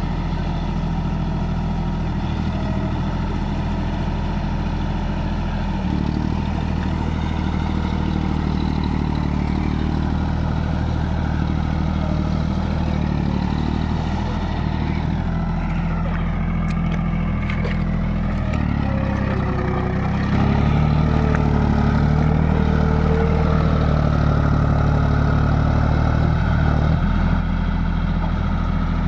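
Tractor diesel engine running steadily under load. The engine note rises about six seconds in, rises again about two-thirds of the way through, and eases back near the end.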